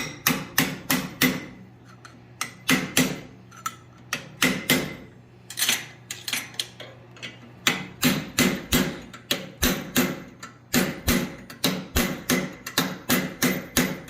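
Hand hammer striking hot steel bar stock on an anvil, opening up the cut split in the bar: quick ringing blows in runs of several, about three to four a second, with short pauses between runs.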